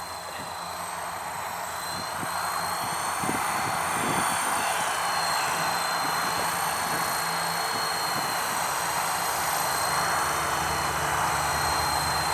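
Helicopter in flight: a steady rotor and engine noise with a high, even turbine whine over it, growing slightly louder in the first few seconds.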